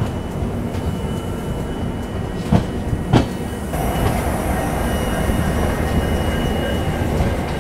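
Railway train running on the track: a steady rumble with two sharp wheel knocks about two and a half and three seconds in. From about four seconds a louder hiss with a faint thin whine joins in.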